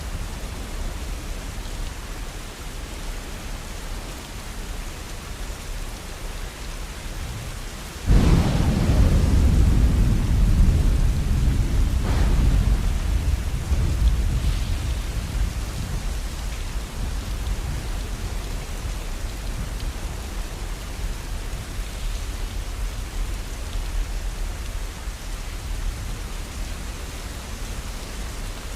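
Steady rain with a thunderclap about eight seconds in, followed by a second sharp crack a few seconds later, the thunder rumbling away slowly over the next ten seconds or so.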